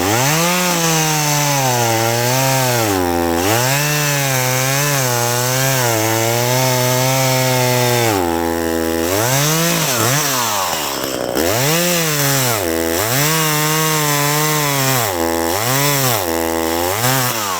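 Small Echo two-stroke chainsaw revving and cutting wood. Its pitch rises and sags under load, dropping back to idle a few times between cuts. The owner says the chain is getting really dull, which makes the cutting hard.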